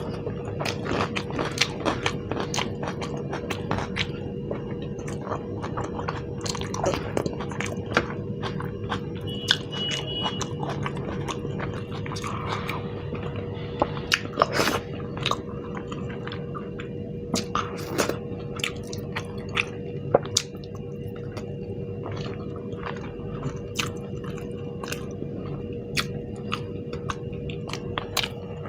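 Close-miked mouth sounds of a person eating spicy Indian food by hand: chewing and biting with many sharp, irregular wet clicks and smacks. A faint steady hum runs underneath.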